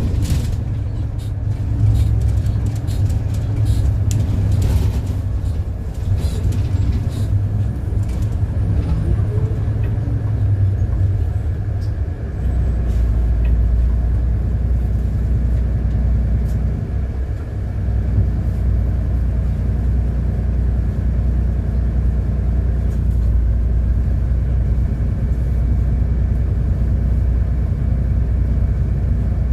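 City bus running on the road: a steady low engine and road rumble, with scattered rattling clicks in the first ten seconds. About twelve seconds in, the engine drone shifts to a lower pitch and holds there.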